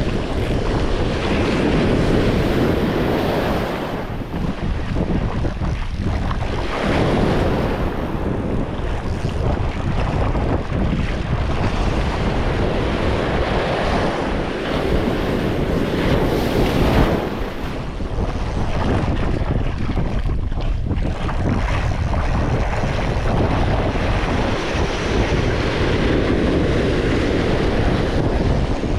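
Wind buffeting the microphone over the wash of breaking surf, swelling and easing every few seconds.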